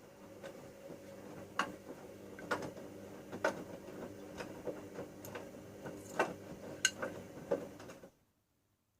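Bauknecht front-loading washing machine turning its drum during a wash cycle: a steady motor hum with irregular sharp clicks and knocks, about one a second. The sound cuts off abruptly near the end.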